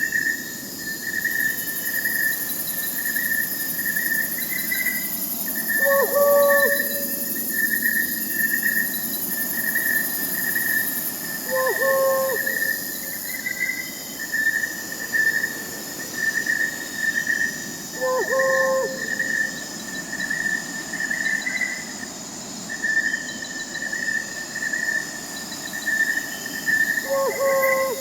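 Crickets chirping in a steady pulsing trill, with an owl's short hoot coming four times, roughly every six seconds.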